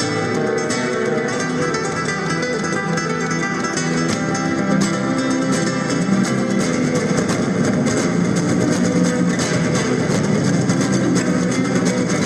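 Solo acoustic guitar playing flamenco-style fingerstyle music, a continuous stream of quickly plucked and strummed notes.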